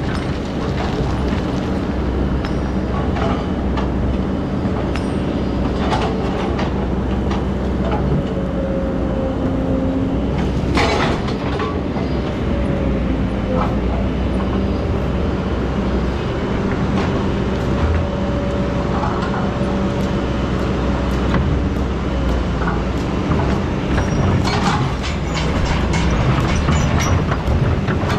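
Excavator diesel engine running steadily, with scattered sharp knocks and clatter, one louder knock about eleven seconds in and a cluster near the end.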